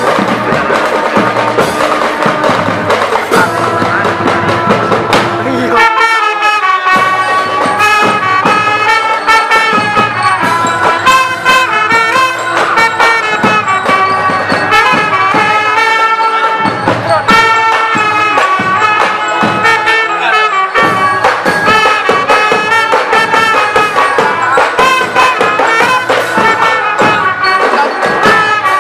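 Marching band playing: brass instruments carry a melody over drums, with the melody coming in clearly about six seconds in.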